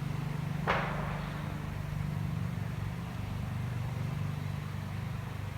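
Honey bee swarm buzzing in a steady low drone as the bees fly around and move into a swarm trap. A brief rustle comes about two-thirds of a second in.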